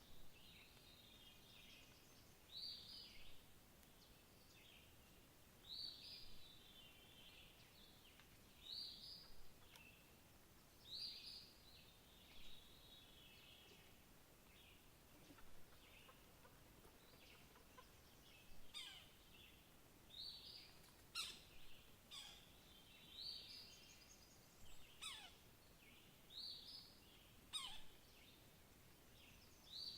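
A songbird repeating one short, high song phrase about every three seconds, with several quick calls that sweep sharply downward in pitch in the second half. Faint steady outdoor background between the phrases.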